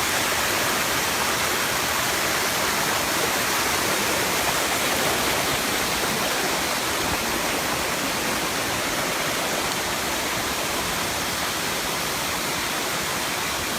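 Steady rush of waterfall water cascading over the seventh tier of Erawan Falls.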